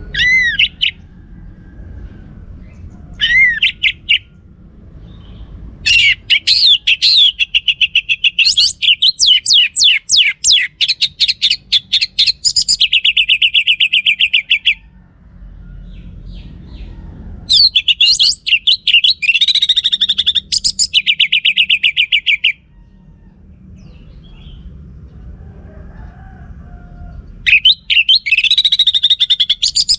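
Orange-headed thrush singing: two short whistled phrases at the start, then three long, varied songs, each ending in a fast, even trill, with pauses between them. A faint low rumble runs underneath.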